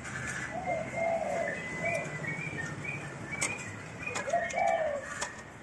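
Bird calls: two short runs of low, arching notes, about a second in and again near the end. Sharp clicks of plastic parts come in between, as the copier's waste-toner box is handled and seated.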